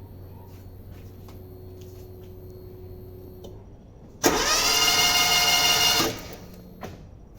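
Car engine with a steady low hum, then about four seconds in a loud whine that sweeps up in pitch, holds steady for about two seconds and drops off suddenly.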